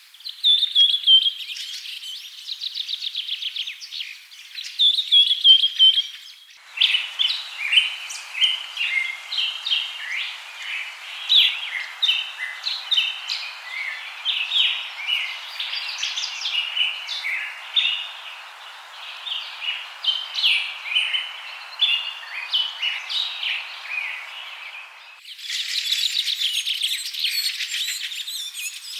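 Birds chirping and trilling. Fast trills open the sound. About seven seconds in, a busy chorus of many birds' short chirps starts over a steady hiss. The chorus cuts off suddenly near the end, and rapid trilling comes back.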